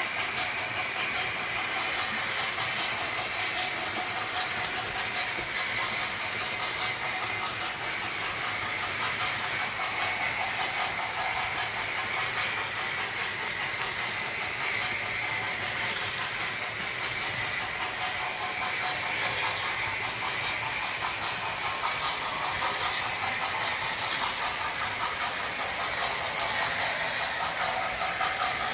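O gauge model trains and Carrera Go slot cars running on the layout: a steady whine of small electric motors that wavers in pitch, over a constant running noise.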